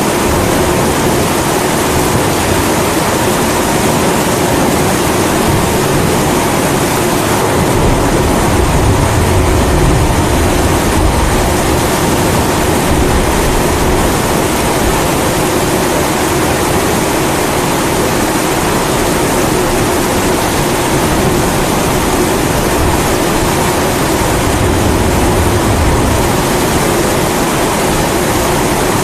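Kerosene pressure stove burner running with a steady roar, mixed with steady rain. Low rumbles of thunder swell about eight seconds in and again near the end.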